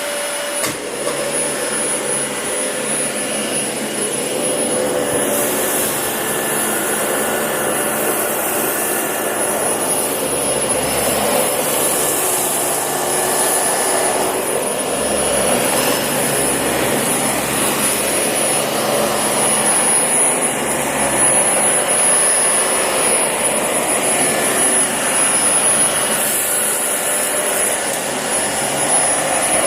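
Dyson DC40 upright vacuum cleaner running steadily, a continuous motor whine with a thin high tone above it.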